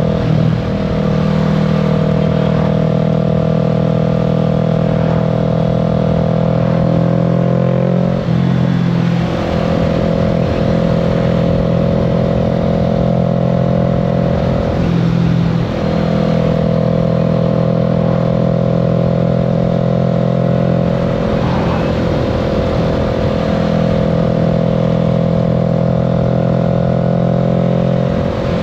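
Kawasaki Z650's parallel-twin engine running under way, heard from the rider's seat, its steady note broken briefly about three times as the revs dip and pick up again, with low wind and road rumble underneath.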